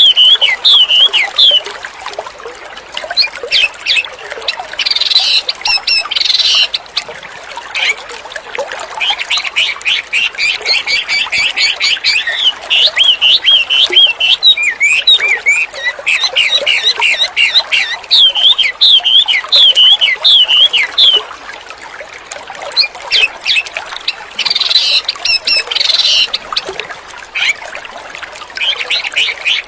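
Wambi songbird singing vigorously: long bouts of rapid repeated notes and quick sweeping whistles. There are short pauses between bouts, the longest about 8 and 22 seconds in.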